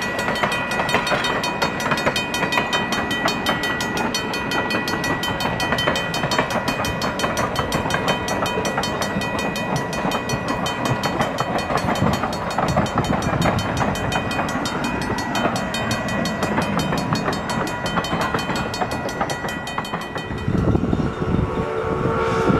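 Passenger coaches rolling past over a level crossing, wheels clattering on the rails, while the crossing signal's bell rings steadily. About 20 seconds in the sound changes to a deeper rumble, and then the steam locomotive's chime whistle sounds a chord of several notes.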